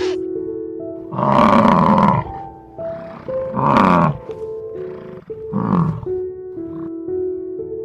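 An animal calling loudly over background music: three drawn-out calls about two seconds apart, with weaker calls between them.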